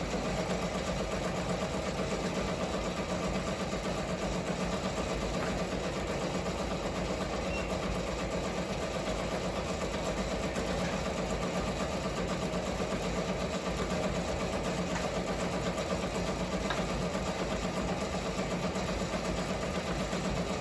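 Ricoma MT-1501 embroidery machine stitching steadily at speed, a fast even clatter of needle strokes. Under it runs a loud smacking that does not stop the machine or spoil the stitching, its cause not yet found.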